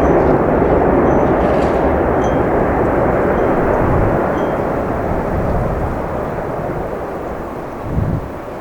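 Loud engine roar of a heavy jet airliner on landing, fading slowly as the aircraft moves away. A brief low thump comes near the end.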